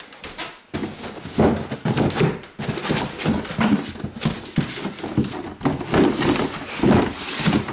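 Clothes, plastic bags and boxes being handled and packed: continuous loud rustling and crumpling with frequent knocks and thuds, starting about a second in.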